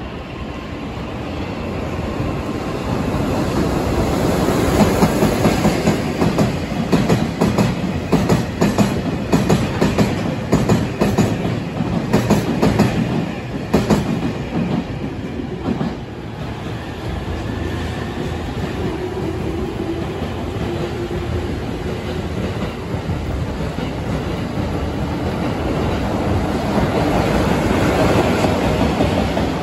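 Container freight trains hauled by EF66 electric locomotives passing along the tracks, the wagon wheels clattering quickly over the rail joints. The first train's clatter builds up and then ends about halfway through. The second train gets louder near the end as its locomotive passes close by.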